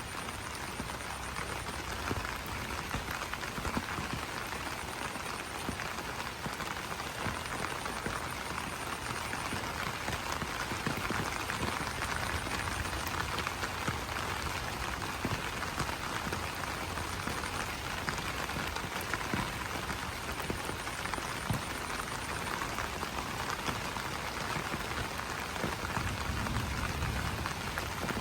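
Steady rain falling on banana leaves: a dense, even patter of drops.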